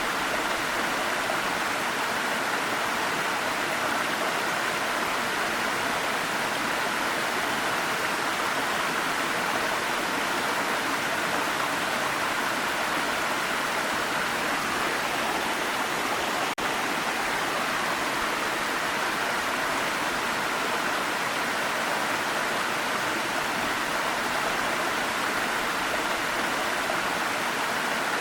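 Waterfall: a steady, unbroken rush of falling water, with one very brief dip in level about sixteen seconds in.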